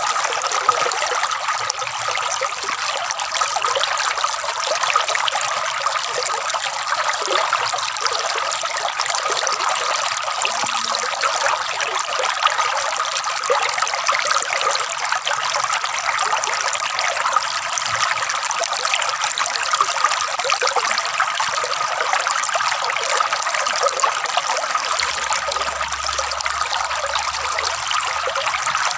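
Flowing water trickling and gurgling steadily, a dense run of small splashes with no pause.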